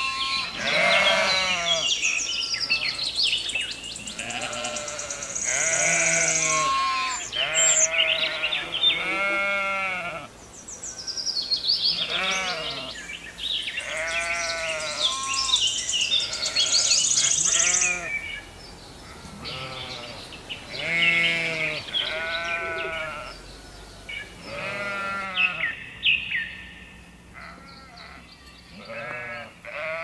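A flock of sheep bleating over and over, many calls overlapping, some high-pitched and some deep.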